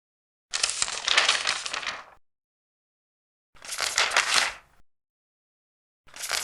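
Large paper pages being turned one at a time: three crisp rustling page turns, each lasting a second or more, with dead silence between them. The last begins near the end.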